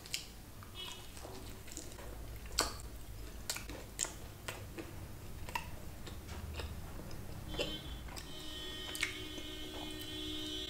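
Chewing a crispy chicken wrap: quiet mouth sounds with scattered sharp crunches and clicks. A faint steady hum with several tones comes in about seven and a half seconds in.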